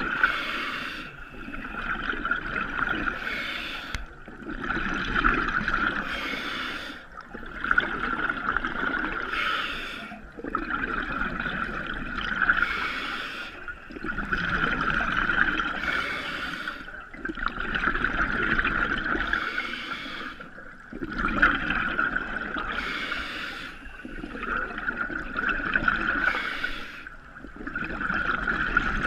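Scuba diver breathing underwater through a regulator: a steady hiss of each breath drawn in, alternating with a gush of exhaled bubbles, about one breath every three seconds.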